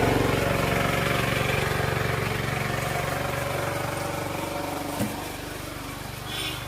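A motor vehicle's engine running steadily and slowly getting quieter, with a single click about five seconds in.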